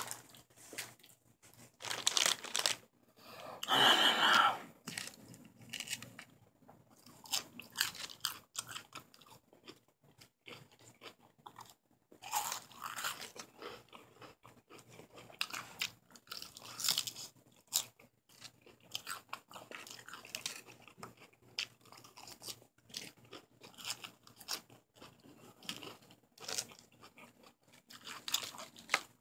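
Person chewing mouthfuls of crisp lettuce salad close to the microphone: irregular wet crunching bites, with a louder burst about four seconds in.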